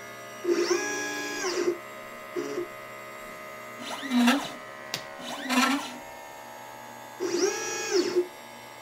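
LitePlacer pick-and-place machine's stepper motors driving its gantry: a whining tone that rises in pitch as each move speeds up and falls as it slows. Two longer moves of about a second come near the start and near the end, with several short moves between.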